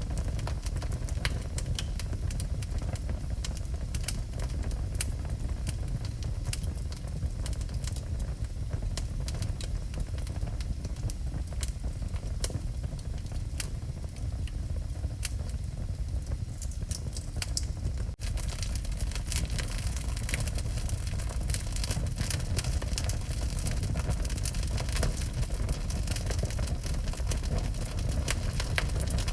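Wood fire burning in a fireplace: a steady low rumble with frequent sharp crackles and pops. About eighteen seconds in the sound briefly drops out and comes back with a brighter hiss.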